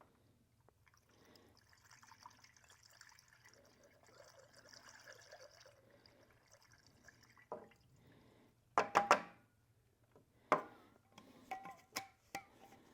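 Engine flush pouring from its bottle into a diesel engine's oil filler neck, a faint steady trickle for about six seconds, followed by a few sharp knocks and clicks, the loudest about nine seconds in, as the bottle is handled.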